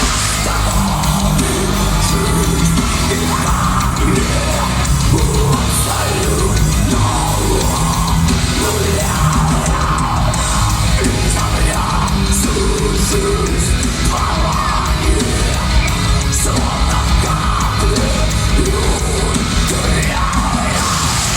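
Heavy rock music with a voice singing over the band.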